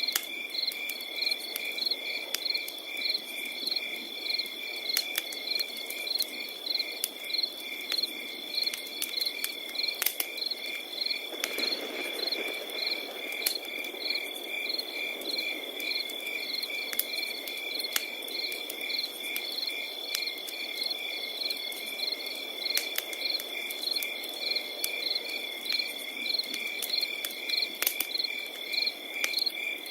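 Crickets calling nonstop: one high steady trill, with another cricket's even chirps pulsing about two to three times a second. Scattered sharp pops and a soft hiss of a crackling wood fire run underneath.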